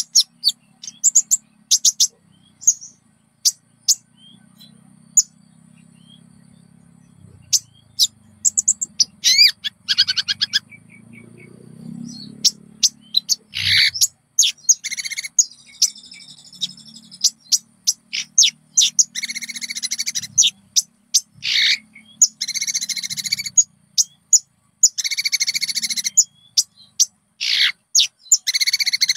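Konin songbird singing: rapid sharp chirps and dense, buzzy trilled phrases, loudest in the second half, over a faint low hum.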